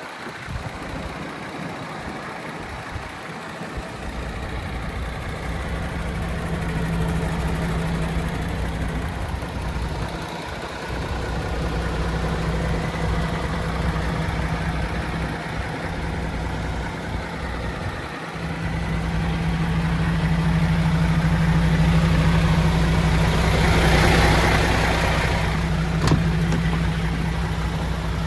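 MAN TGX 18.460's straight-six diesel engine idling steadily with a low hum, growing louder in steps. A brief rushing sound rises over it about 24 seconds in.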